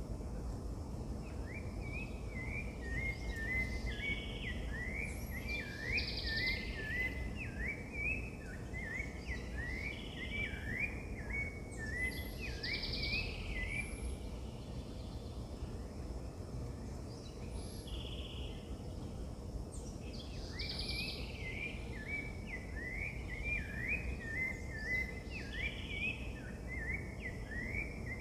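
Wild birds singing: long runs of quick, rising twittering notes, with scattered higher chirps from other birds, over a steady low background rumble.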